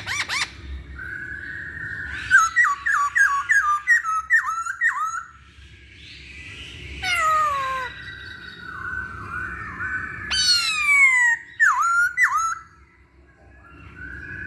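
Poksay Hongkong laughingthrush singing a loud, varied song: a run of quick repeated notes, then long falling whistles and sharp downslurred notes.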